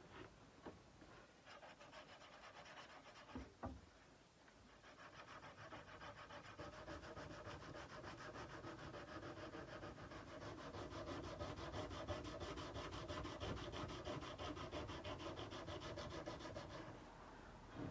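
Sandpaper rubbed by hand along a steel kukri blade in quick, even back-and-forth strokes. A couple of light knocks come first, the sanding starts about a quarter of the way in, and it stops shortly before the end.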